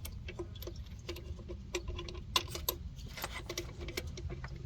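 Loose steel bolts clicking and clinking as they are handled and set in place: a string of irregular light metal taps, with one sharper clink a little past the middle.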